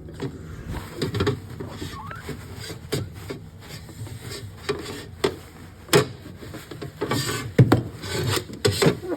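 Rubbing and scraping of a fridge being cleaned by hand, with irregular sharp knocks and clatters; the loudest knock comes about three quarters of the way through.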